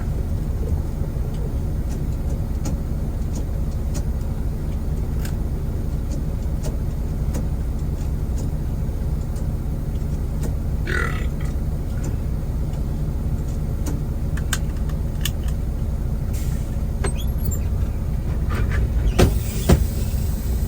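Semi-truck's diesel engine running with a steady low rumble, heard from inside the cab. A short squeak about halfway through, and a few sharp clicks and knocks near the end.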